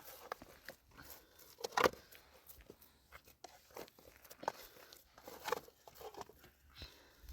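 Irregular crunching and rustling handling noises, a scatter of short clicks with the loudest crunch about two seconds in.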